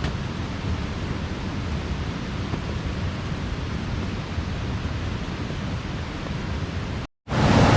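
Steady rushing of a waterfall. Near the end the sound drops out completely for a moment, then comes back louder.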